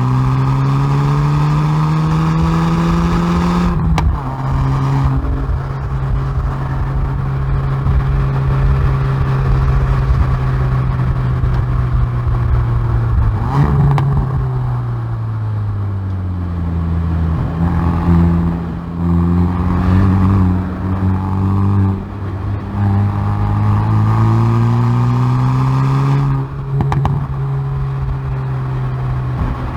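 Hyundai i30N Performance's turbocharged 2.0-litre four-cylinder exhaust under hard track driving: revs climb and break sharply at a gear change about four seconds in, hold high, fall away after the middle as the car slows, then climb again through further gear changes near the end.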